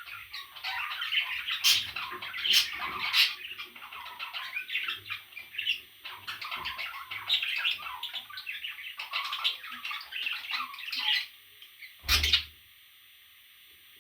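Parrot chicks calling in a dense, rapid chatter of squawks, with a few louder sharp squawks about two to three seconds in. The calling stops about eleven seconds in, and a single brief thump follows.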